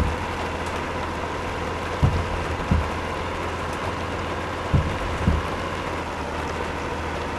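A truck on the move, with a steady drone of engine and road noise and a faint steady whine. Pairs of short low thumps, about half a second apart, come three times.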